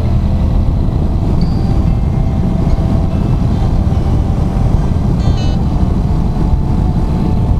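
Steady road noise inside a moving car: an even low rumble of engine and tyres.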